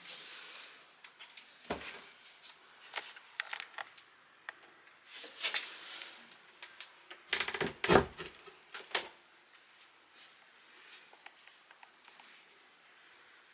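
Scattered clicks and knocks of a wooden cabinet being handled, with a cluster of heavier thumps about eight seconds in.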